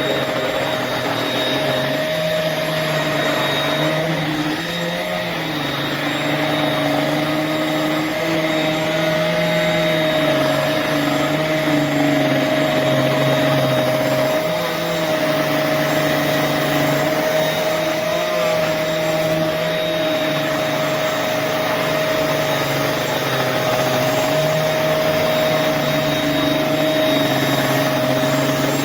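UWANT M100 futon cleaner running steadily: a motor hum with a constant high whine, its low hum dipping and rising in pitch every few seconds.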